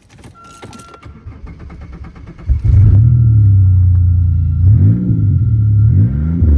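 1998 Buick Regal's 3.8-litre V6 starting about two and a half seconds in, then running loudly and blipped up and down twice. The loudness comes from a damaged exhaust with a chunk missing out of it, and the owner also suspects a vacuum (suction) leak.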